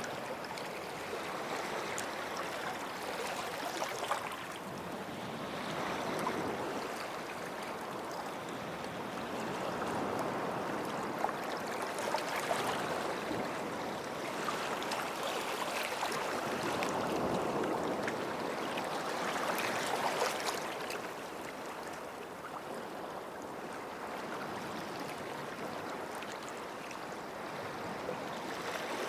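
Sea waves washing onto a sandy shore, the wash swelling and ebbing every several seconds with a light crackle of foam.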